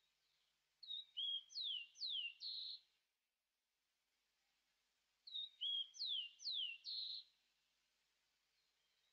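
A songbird sings the same short phrase twice, about four and a half seconds apart. Each phrase has a couple of short high notes, two high whistles sliding down and a buzzy closing note.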